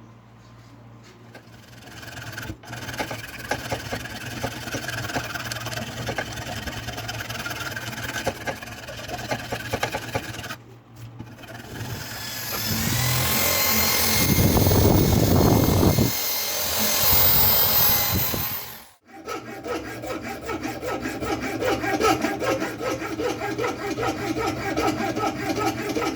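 Sanding and rasping strokes on a knife handle being shaped. A motorised tool runs loudly with a high whine for several seconds in the middle and cuts off abruptly, then the rasping resumes in an even rhythm.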